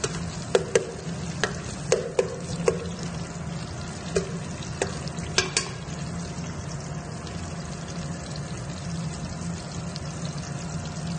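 Sliced onions and garlic sizzling steadily in hot oil in a metal pot as they brown. During the first half, a spoon clinks against the pot a dozen or so times as they are stirred.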